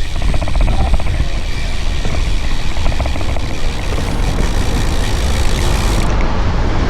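Wind buffeting the microphone of a camera on a moving bicycle: a loud, steady rumble that is heaviest in the low end.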